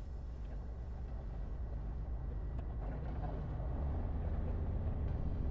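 Light aircraft's piston engine running steadily at low power, heard from inside the cockpit as a low, even hum that grows gradually louder.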